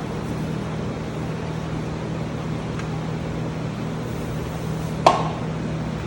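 Steady mechanical hum, with one sharp knock about five seconds in.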